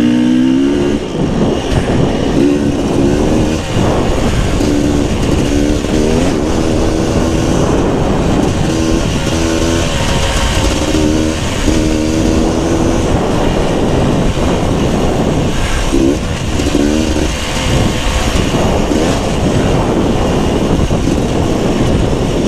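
Beta 300 RR two-stroke enduro dirt bike engine being ridden on a trail, the revs rising and falling again and again as the throttle is worked, over a steady rush of noise.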